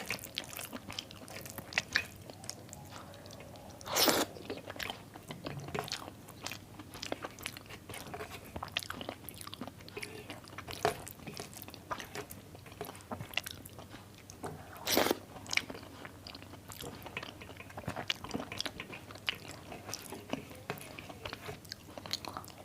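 Close-up eating sounds: a person chewing rice mixed with mashed potato and pumpkin, with many small wet mouth clicks and smacks. Two louder, brief noises stand out, about 4 and 15 seconds in.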